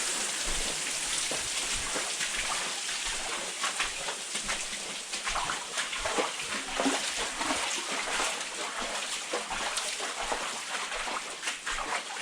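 Boots splashing and sloshing through shallow water and muck in uneven steps, over a steady wash of dripping or running water.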